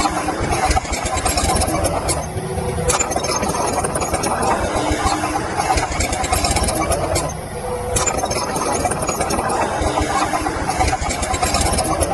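Heavy construction machinery engine running steadily, with sharp knocks every few seconds.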